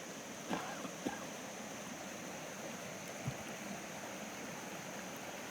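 A creek running high after heavy rain makes a steady rushing of water. A few short knocks come about half a second, a second and three seconds in.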